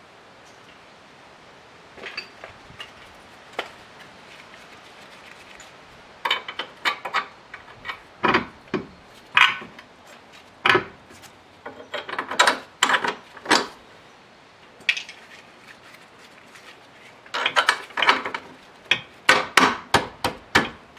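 A hammer and hand tools striking metal car parts in irregular sharp knocks: a few light taps, then from about six seconds in, bursts of strikes, with a quick run of strikes near the end.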